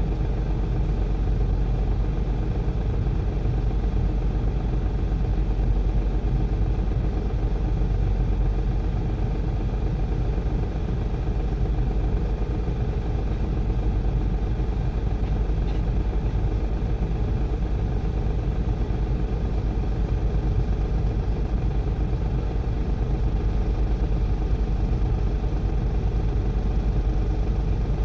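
Heavy diesel engine of an excavator or dump truck running steadily, its pitch and loudness unchanging throughout.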